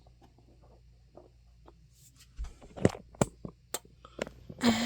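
Handling noise: faint shuffling and scraping, then three sharp clicks and knocks a little under a second apart, as a camera is fitted onto a tripod. A voice begins right at the end.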